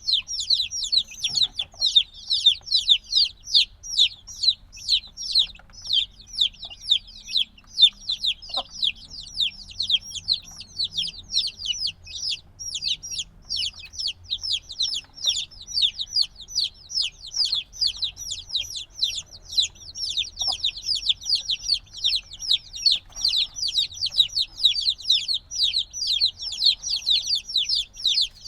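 A brood of chicks a few days old peeping nonstop, many short high chirps that fall in pitch, overlapping several times a second. Young chicks peep like this while they are still seeking the warmth of the mother hen.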